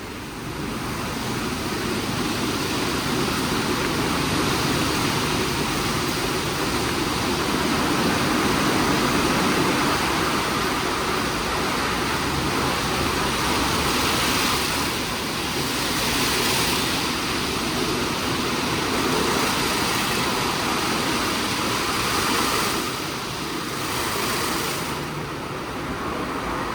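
WashTec SoftCare² Pro rollover car wash running through its cycle: a steady, loud rushing hiss of machinery and spray that swells about half a second in, with brighter hissing stretches past the middle and near the end.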